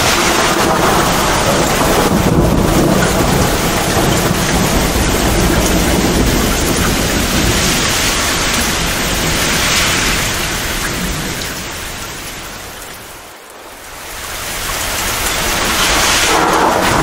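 Heavy, steady rain with a low rumble of thunder under it. About three-quarters of the way through, the whole storm fades down briefly and swells back up.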